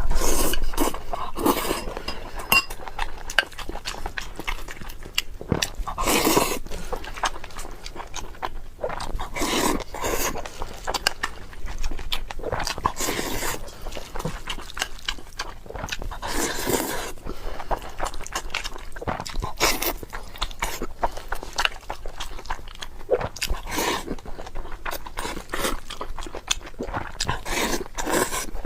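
Close-miked chewing and wet mouth sounds of someone eating braised pork belly and rice, in irregular bites, with occasional clinks of utensils on a dish.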